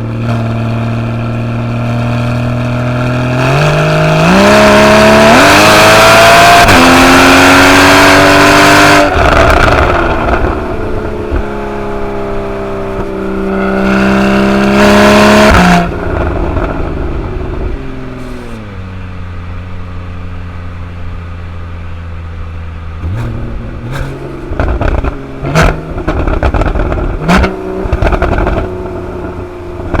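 Porsche 981 Boxster GTS flat-six with its sport exhaust accelerating hard twice, the pitch climbing in steps through upshifts, then falling away and running low and steady. Near the end come several sharp exhaust cracks and pops with short revs.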